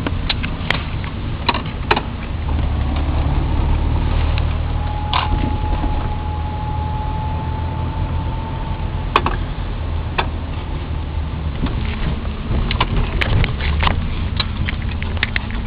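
Cabin sound of a 1990 Volvo 740 GLE 16-valve being driven: a steady low drone of its 2.3-litre four-cylinder engine and the road. Scattered sharp clicks and knocks run through it, and a steady high tone holds for a few seconds in the middle.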